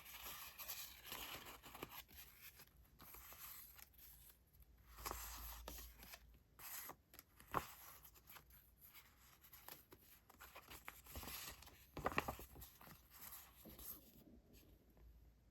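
Paper stationery and sticker sheets being handled and leafed through close to the microphone: soft, intermittent paper rustling with two sharper taps in the second half.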